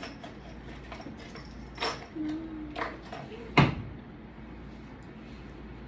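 Table-side handling noise: a few knocks and rustles, with one sharp, loud knock about three and a half seconds in. A voice gives a short hummed "mm" just after two seconds.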